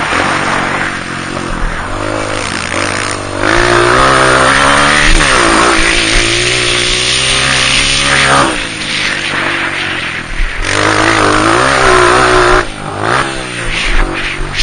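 Honda CRF230 dirt bike's single-cylinder four-stroke engine being ridden hard. The engine note climbs under throttle and drops back several times as the rider shifts or rolls off, with heavy wind and rushing noise throughout.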